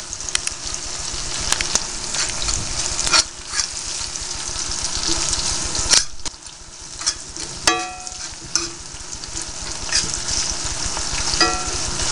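Sliced onions, jalapeño peppers and garlic sizzling steadily in hot canola oil in a pan as they are stirred, with scattered scrapes and knocks of the utensil against the pan. Two knocks, about two-thirds of the way through and near the end, ring briefly.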